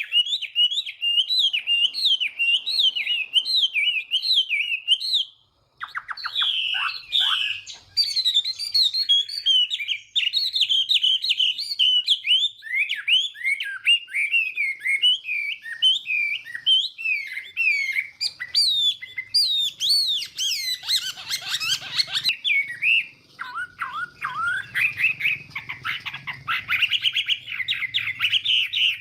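Chinese hwamei singing a long, rapid run of loud, varied whistled phrases that sweep up and down in pitch, with a brief break about five and a half seconds in.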